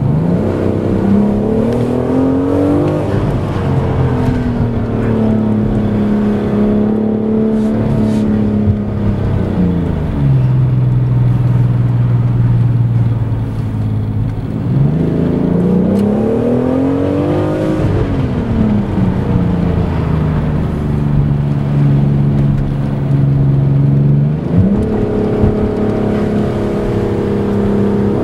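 BMW M760i's twin-turbo V12 engine and exhaust under way, revs climbing at the start, holding steady, then dropping to a lower steady note. Midway the revs rise and fall again, then hold. They climb once more near the end.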